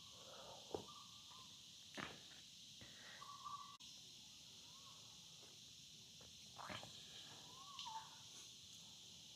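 Faint outdoor ambience: a steady high insect chorus, with several short calls from an animal or bird and a few soft knocks.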